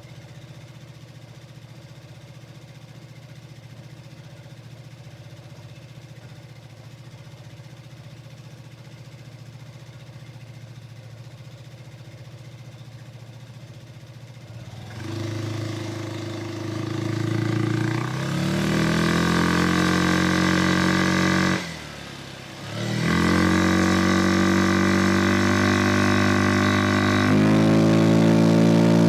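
Vespa Sprint 150 scooter's single-cylinder four-stroke engine idling steadily, then pulling away about halfway through, revs rising as the Malossi-kitted CVT takes up. The throttle closes briefly about three-quarters of the way in, then opens again and the engine runs on at a steady speed.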